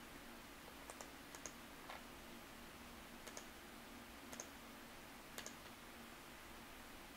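Freight train of covered hopper cars rolling past far off, heard only faintly: soft, irregular clicks about once a second over a low steady hum.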